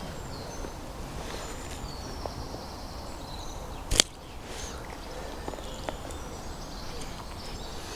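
Outdoor ambience of low wind rumble and faint birdsong, broken once about halfway through by a single sharp snap.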